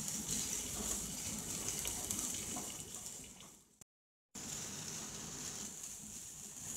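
Chopped tomatoes and onions frying in oil in a kadai, a steady sizzle as they are stirred with a wooden spatula. The sizzle fades and cuts to silence a little under four seconds in, then picks up again just after.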